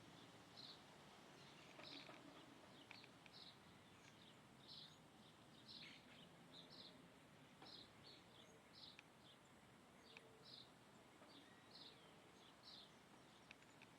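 Birds chirping faintly, a steady run of short high chirps at about two a second.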